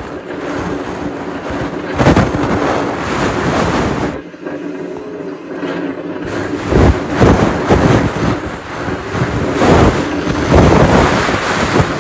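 Hurricane-force wind gusting hard against the microphone, a loud rushing roar that surges and falls, with a brief lull about four seconds in.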